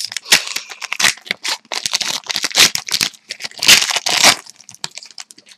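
Plastic wrapper of a hockey trading card pack crinkling and tearing open, in a quick irregular run of crackles that is loudest in the middle and fades near the end.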